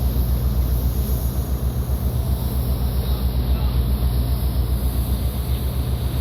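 A large ship's diesel engine running steadily at low revs, with a deep, even throb.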